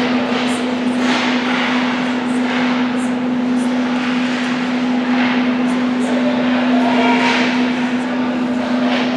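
Ice hockey arena ambience during a game: a steady hum runs under a noisy wash of play on the ice, with faint spectator voices near the end.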